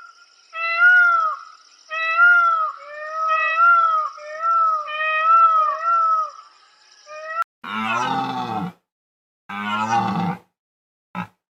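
Animal calls: a quick run of short, pitched calls, each arching up and down, then after a sudden cut two longer, rougher and much lower calls.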